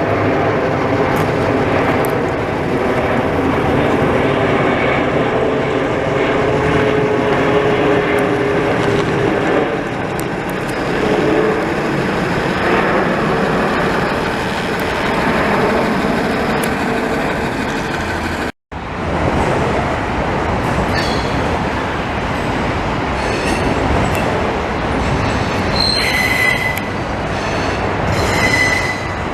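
A train rolling past with a steady rumble and clatter. After a brief cut-out about two-thirds of the way through, high-pitched metal wheel squeals ring out several times near the end.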